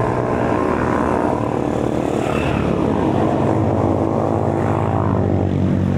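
A motor vehicle's engine running steadily close by, with a droning hum.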